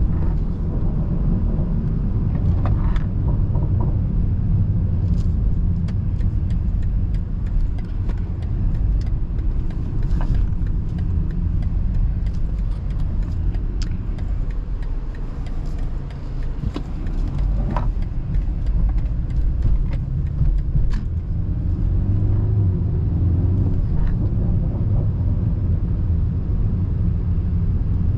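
BMW 330i's turbocharged four-cylinder engine and tyre noise while driving, heard from inside the cabin as a steady low rumble, with a few light clicks.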